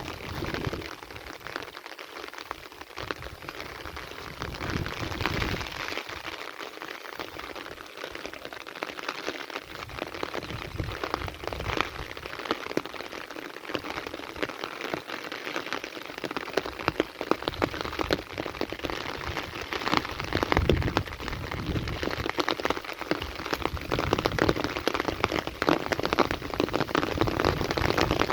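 Heavy rain falling, a dense hiss of drops striking surfaces, growing steadily louder over the second half.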